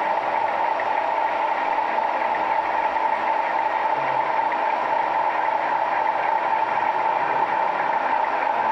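Steady engine-like running sound, an idling diesel with a constant hum and no change in pitch.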